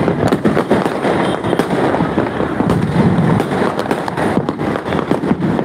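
Aerial fireworks and firecrackers going off, a dense run of sharp cracks and bangs without a break.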